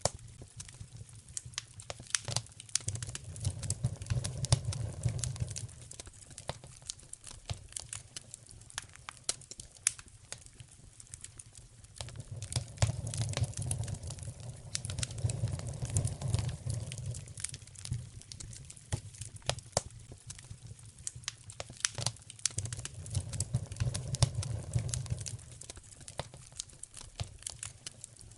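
Wood fire in a fireplace crackling, with sharp pops throughout. A low rumble swells up three times: a few seconds in, around the middle, and near the end.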